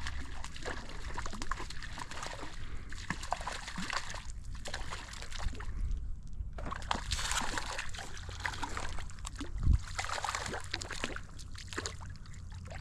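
Water splashing and sloshing at the surface as a hooked rainbow trout is played in on a fixed line. The sound is a continuous patter of small splashes, with one dull bump about ten seconds in.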